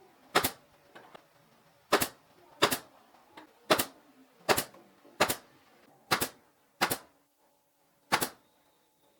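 Nine sharp, separate cracks from a tool striking wood, such as hammering or nailing during the build, coming roughly once a second at an uneven pace, with a few fainter taps between them.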